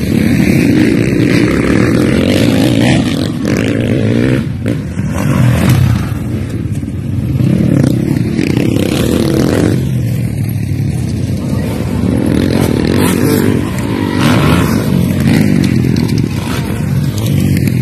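Motocross dirt bike engines revving hard, the pitch rising and falling again and again as the throttle is worked.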